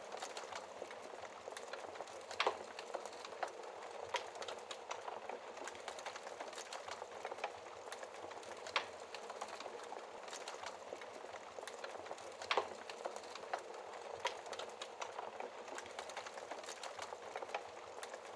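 Wood fire crackling in a fireplace: a steady soft hiss with frequent small crackles and a few louder sharp pops scattered through.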